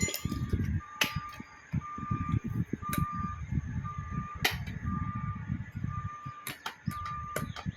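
An electronic beeper sounding about once a second, each beep short and at one pitch, with a few sharp metallic clicks and knocks and low rumbling between them.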